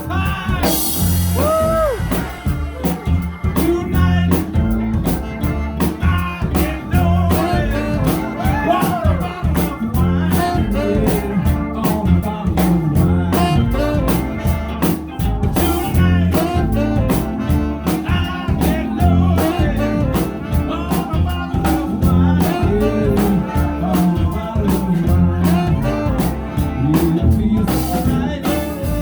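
Live band playing a blues-rock number: guitar with bending notes over a drum kit, with singing.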